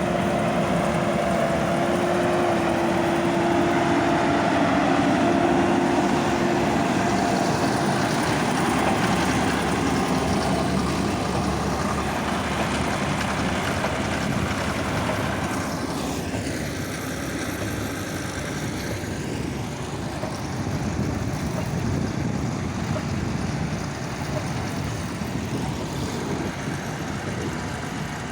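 Diesel engine of a large farm machine running steadily under load, with a steady whine in the first third that fades away. About two-thirds of the way in, the sound takes on a hollow sweeping quality for a few seconds.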